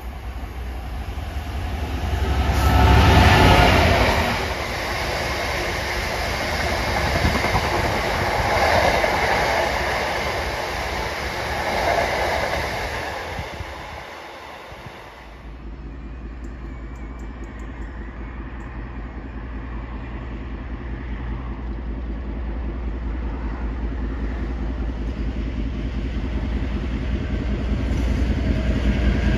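A diesel-hauled freight train of open box wagons passing, its wheels rumbling and clattering over the rail joints, loudest about three seconds in and fading away. About halfway through, after a cut, a class 56 diesel locomotive running light engine approaches, its engine a steady low note that grows louder toward the end.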